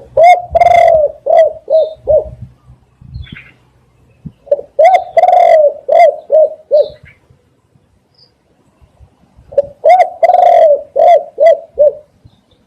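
Spotted dove cooing three times, each phrase a short coo, a longer drawn-out coo, then four or five quick short coos. Faint high chirps from another small bird come between the phrases.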